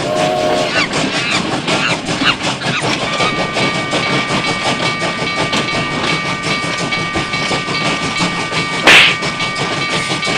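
Train sounds: a fast, continuous clatter of clicks, joined about three seconds in by a steady whine of several high tones, with a short loud hiss about nine seconds in.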